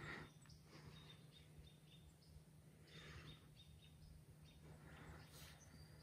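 Near silence: faint outdoor ambience with a few brief, faint bird chirps and soft rustles about three and five seconds in.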